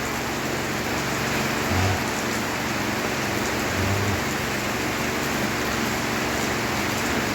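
Heavy rain falling steadily, with two brief low thumps about two and four seconds in.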